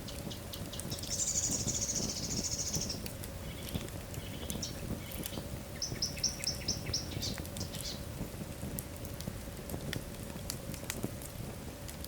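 Wood fire crackling in a fireplace, with scattered sharp pops. A high hiss comes about a second in, and a quick run of about five short, high chirping squeaks comes around six seconds in.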